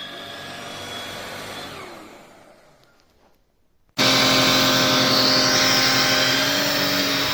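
Jimmy JV35 handheld mattress vacuum: a quieter running sound fades away over the first three seconds. About four seconds in, the vacuum switches on abruptly and runs loud and steady with a constant motor hum.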